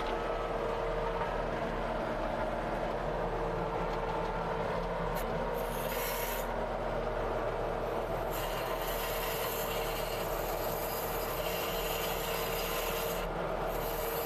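Tracked skid steer running steadily under work, heard from inside its enclosed cab, with a steady whine and a high hiss that cuts in and out a few times.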